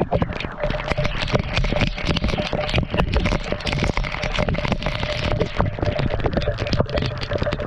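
Waterfall water falling and splashing close to the microphone: a dense, steady spatter of drop impacts that overpowers the mic.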